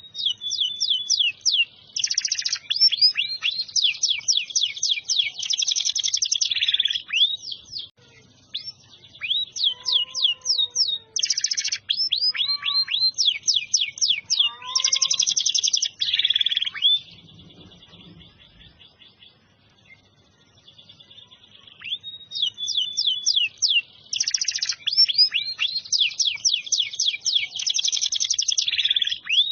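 Domestic canary in full song, delivering long phrases of rapid high trills and quick sweeping notes, with a short break about a quarter of the way in and a longer one past the middle.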